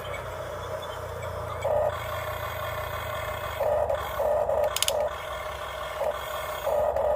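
Electric motors of a remote-control construction toy whining, louder in short spurts as the controls are worked, with a brief clicking rattle near the middle.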